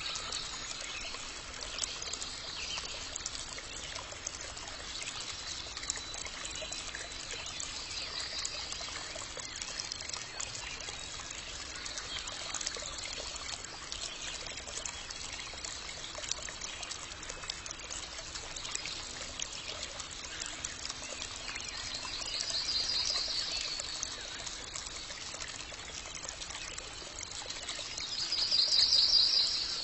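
Water trickling steadily, with birds calling now and then in short high trills; the loudest trill comes near the end.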